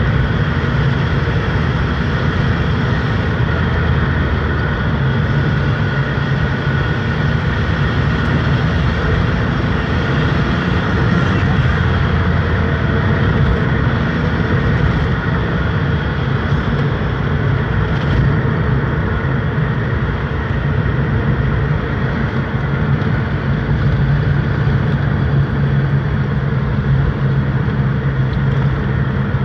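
A steady, low engine drone that runs without a break, with a constant low hum in it.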